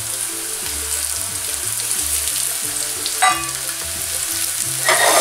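Sliced button mushrooms frying in hot olive oil in a frying pan, a steady sizzle, with a short knock about three seconds in.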